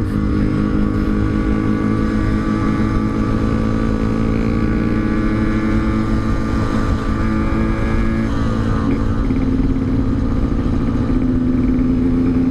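Yamaha RX-King's single-cylinder two-stroke engine, fitted with an aftermarket Altec C20 exhaust, running steadily under way, easing off a little about eight seconds in, with low wind rumble on the microphone.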